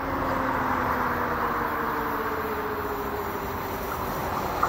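ICE high-speed train approaching along the line: a steady rushing rumble with a faint, slowly falling hum, growing a little louder toward the end.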